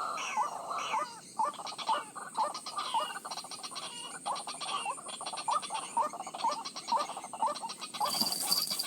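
White-breasted waterhen (ruak-ruak) calling: a steady run of short, upward-hooked croaking notes, about two to three a second.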